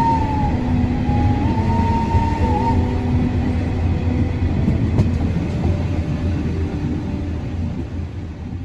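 Baie de Somme narrow-gauge heritage train running on the rails: a steady low rolling rumble, with a high wavering whine over the first few seconds. The sound fades out near the end.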